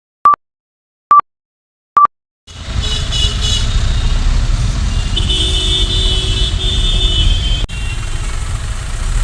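Three short, identical electronic beeps about a second apart, like a countdown, with dead silence between them. Then loud, rumbling vehicle and traffic noise starts, with a held high-pitched tone for a couple of seconds in the middle, and the sound cuts off abruptly near the end.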